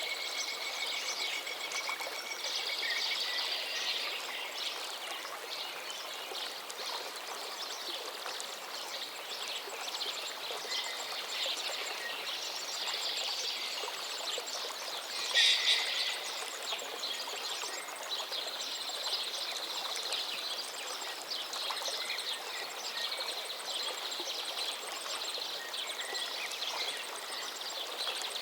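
River water flowing steadily, with many birds chirping and trilling over it and one louder, sharper call about halfway through.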